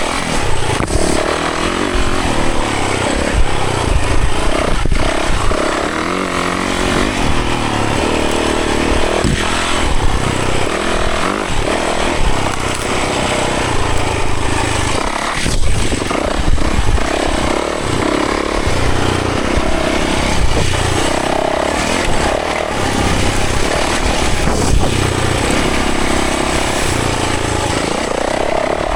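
Yamaha 450 dirt bike's four-stroke single-cylinder engine running hard on a trail ride, the revs rising and falling with the throttle. A few sharp knocks come through along the way.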